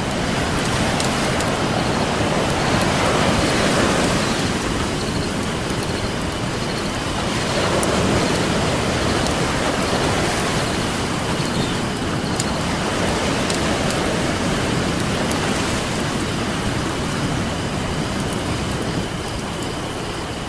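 Ocean waves washing in, swelling and fading every four to five seconds, with a campfire's scattered sharp crackles and pops over them.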